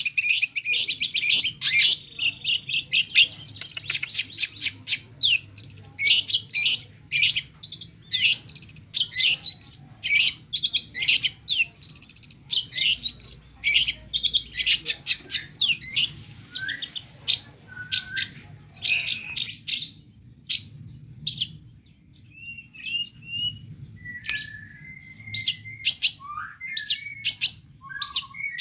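Long-tailed shrike singing a fast, dense run of short notes stuffed with mimicked calls of other birds. After about twenty seconds the song thins to scattered notes and short whistled slurs.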